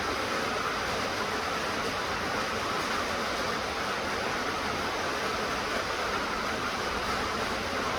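Rain falling, a steady even hiss with no single drops, thunder or other events standing out.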